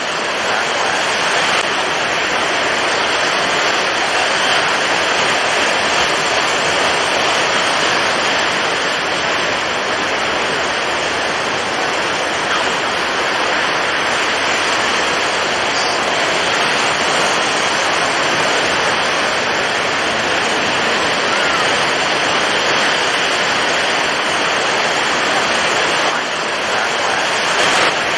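Storm at sea: strong wind and heavy breaking waves blending into one steady, dense rushing noise with no pauses.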